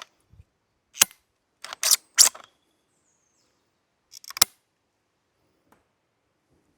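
3D-printed gas-powered DVL-10 airsoft bolt-action rifle being shot and its bolt worked: a few sharp clicks and snaps about a second in, around two seconds in, and again near four and a half seconds.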